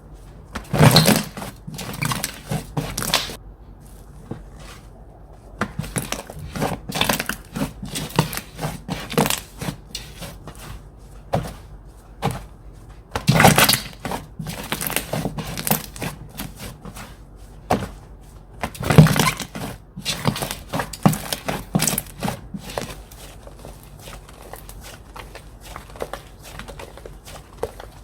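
Slime being squished and stretched by hand: irregular runs of sticky clicks and crackles, with three louder bunches of pops, becoming fainter near the end.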